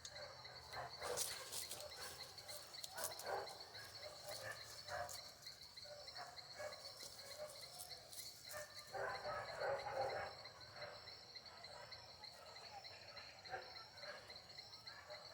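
Faint outdoor ambience: an insect trilling steadily on one high pitch, with scattered short clicks and scuffing noises, the loudest of them about nine to ten seconds in.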